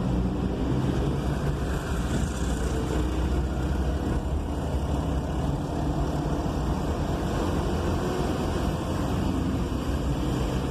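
Steady low engine rumble and road noise heard from inside a vehicle's cab while driving in city traffic.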